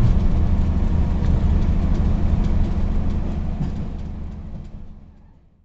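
Steady low rumble of a moving train heard from inside the carriage. It fades out over the last two seconds or so.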